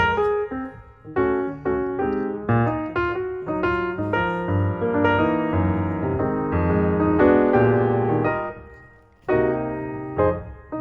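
Piano music: a melody played over chords, with a short pause near the end before it carries on.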